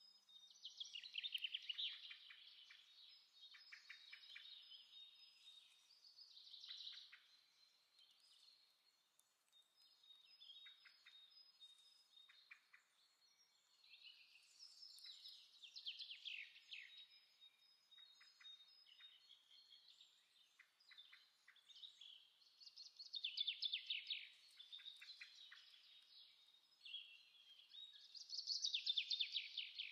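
Faint birdsong: chirps and rapid trills that swell in bursts every few seconds.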